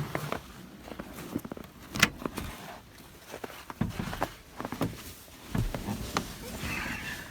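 Irregular footsteps with scattered light knocks and clicks.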